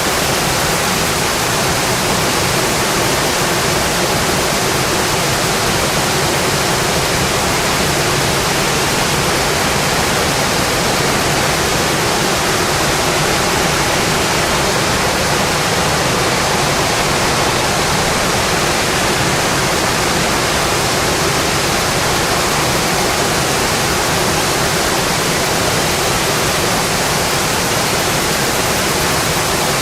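Steady, dense rain on a metal roof, an even hiss with no separate drops or pauses.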